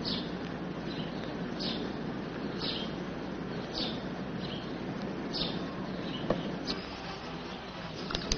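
A bird chirping, short high chirps repeating about once a second, over a steady outdoor background hiss.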